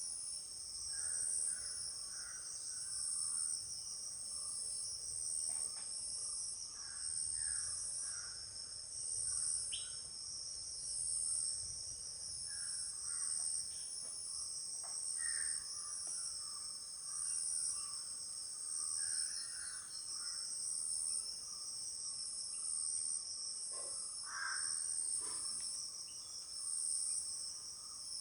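Steady, shrill insect chorus that swells in a regular pulse about once a second, with scattered harsh bird calls over it, strongest about 24 seconds in.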